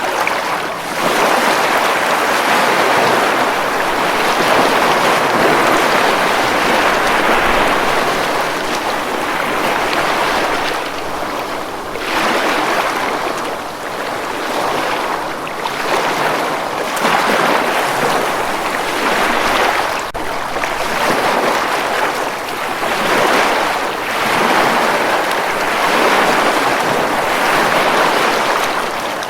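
Ocean waves breaking on a beach, a steady wash of surf that swells and eases every few seconds.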